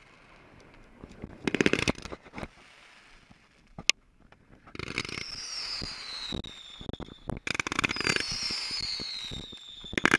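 Consumer fireworks going off. There is a burst of crackling about a second and a half in and a sharp pop near four seconds. Then come long whistles, each sliding down in pitch, over scattered crackling.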